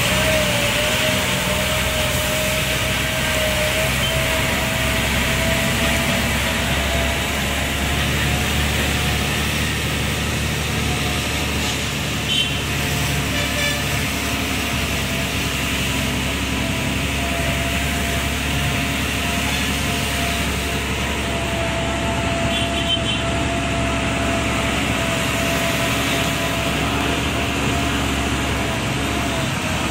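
Lorry engine running steadily under load on a climb, with a steady high whine over its low drone.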